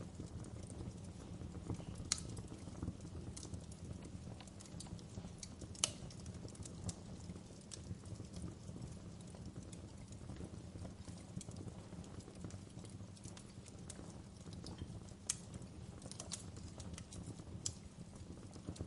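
Wood fire crackling in a fireplace: a steady low rumble of burning logs with scattered sharp pops and snaps, the loudest about two seconds in, near six seconds and near fifteen seconds.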